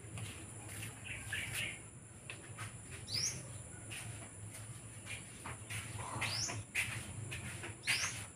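Bird chirping: a short rising call repeated about every four to five seconds, fairly faint.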